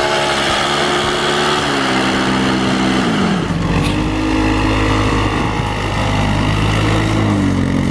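Engine of a 570 ATV running, with its pitch falling twice as the revs drop, about two to three seconds in and again near the end.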